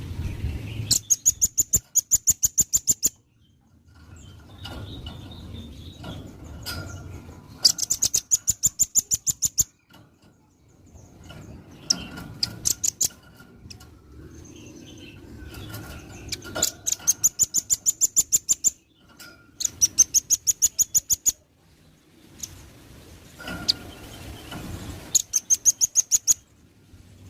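Velvet-fronted nuthatch calling in rapid trills of sharp, high chit notes, about eight a second. Six bursts of about two seconds each are separated by short pauses.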